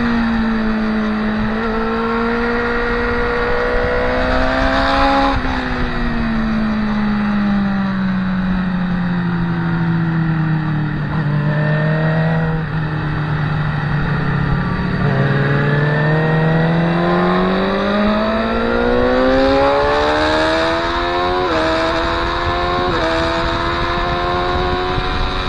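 Motorcycle engine heard onboard at speed. Its pitch sinks gradually as the bike slows, then climbs again under acceleration, breaking twice near the end for quick upshifts.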